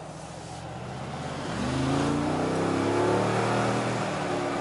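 Mercedes-AMG G63's twin-turbo V8 accelerating, heard from inside the cabin. The engine note rises in pitch and loudness from about a second and a half in, then eases off a little near the end.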